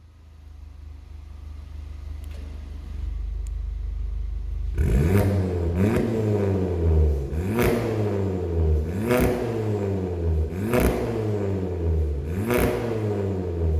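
Seat Ibiza 1.2 TSI turbocharged four-cylinder through a full 63 mm stainless exhaust with downpipe, de-cat and VAREX muffler. It idles with a low rumble, then about five seconds in it is blipped sharply about six times, each rev rising and falling quickly.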